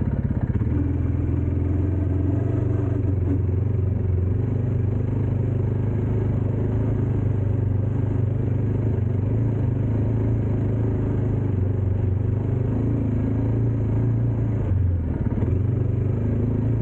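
Dirt bike engine running steadily with a deep, even hum, its pitch shifting slightly now and then.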